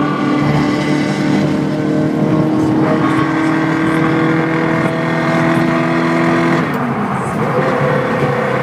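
Ferrari F430's V8 exhaust note, high-pitched, held at steady revs that shift up and down in steps a few times.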